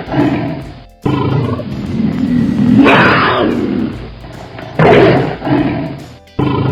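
Tiger roaring again and again, about every two seconds, over cheerful background music.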